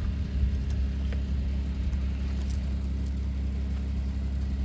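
An engine running steadily at low speed, a constant low hum.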